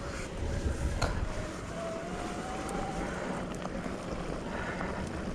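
Wind buffeting the microphone over the rumble of mountain bike tyres rolling on a dirt trail, with a few light clicks and a faint rising whine about two seconds in.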